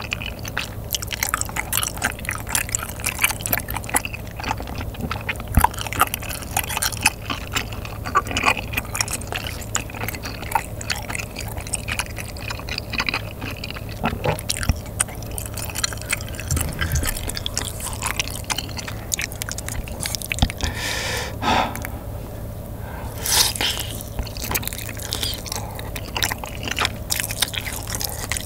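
Close-miked wet chewing of saucy spicy chicken and glass noodles: soft mouth smacks and many small sticky clicks, with no words.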